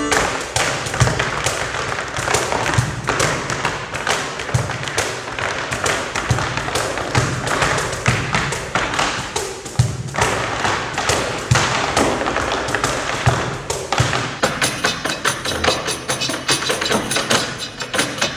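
Tap shoes striking a stage floor in fast rhythmic patterns, over low drum beats that land about once a second. About fourteen seconds in, the pattern turns to a denser, faster run of taps.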